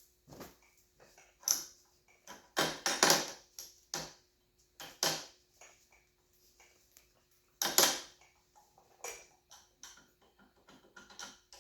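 Hand-work on a dismantled two-stroke dirt bike engine: irregular clinks, knocks and rustling as metal parts are handled and a shop rag is stuffed into the crankcase opening, with louder bursts about three and eight seconds in.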